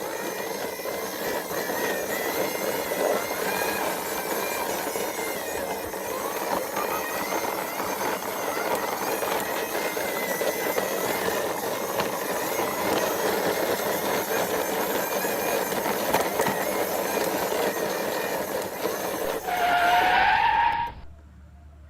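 Plastic toy car's wheels rolling and scraping over rough ground as it is pushed along by hand: a steady gritty rolling noise with a faint wavering squeal. Near the end a louder rising whine, then the sound cuts off suddenly.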